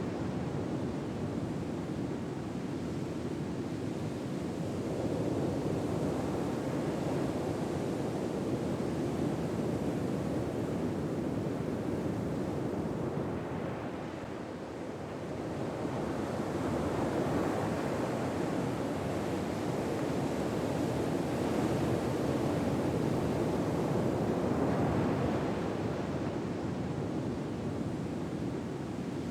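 Ocean surf: gentle waves washing in, the rush swelling and easing every several seconds.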